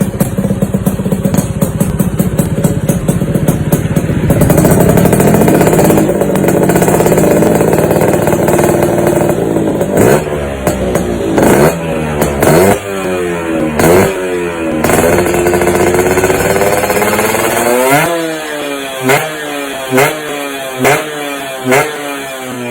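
Yamaha JR120's two-stroke single-cylinder engine running, then held at higher revs about four seconds in, and from about ten seconds on blipped repeatedly, the pitch shooting up and dropping back with each blip, about once a second near the end.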